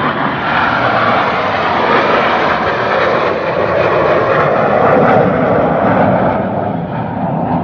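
Jet roar of the U.S. Navy Blue Angels' F/A-18 Hornets on a high-speed pass, swelling to its loudest about five seconds in and then easing off.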